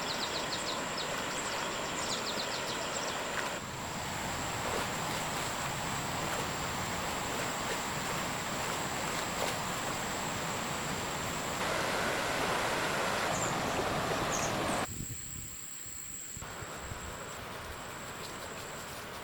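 Outdoor ambience: a steady hiss like running water or wind in foliage, with a thin, steady high-pitched whine over much of it. It changes abruptly several times, dropping quieter about three-quarters of the way through.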